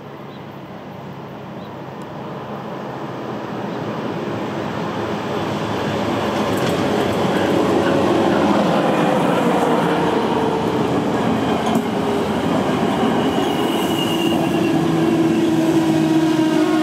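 A train approaching and passing close by on the track, growing steadily louder over the first several seconds and then running loud and steady. A brief high squeal comes in about two-thirds of the way through.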